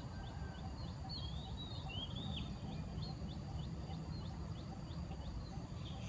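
Small wild birds calling: a high short chip repeated about three times a second, with a quick warbled phrase about a second in and another near the end, over a low steady rumble.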